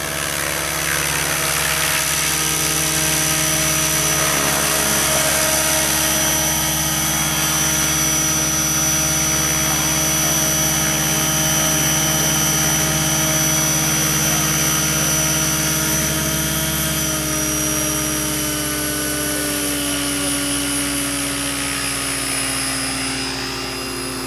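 Radio-controlled model helicopter running steadily in the air, its motor and rotor giving a constant whine over a low drone. The pitch sinks slightly over the last several seconds as it comes in to land.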